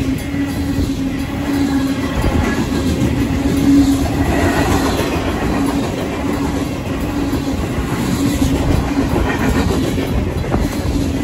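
Freight train cars rolling past at a grade crossing, a steady rumble with the clickety-clack of steel wheels over the rails. The crossing's mechanical warning bell rings along with it.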